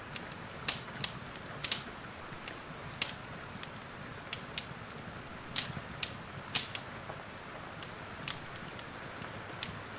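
Wood fire in a fireplace crackling, with sharp irregular pops about once or twice a second, over a steady hiss of rain.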